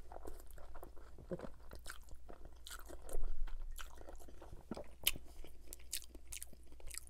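Close-miked mouth sounds of a person eating a mouthful of spaghettini in bolognese sauce: noodles drawn into the mouth at the start, then wet chewing with small sticky clicks and smacks, louder about three seconds in.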